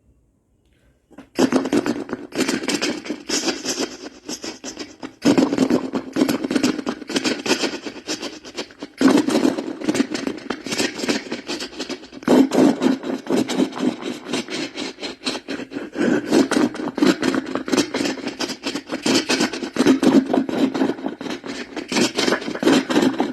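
A person imitating a vehicle engine with their mouth: a fast, rattling buzz that starts about a second in and runs in long stretches, with brief breaks about five, nine and twelve seconds in.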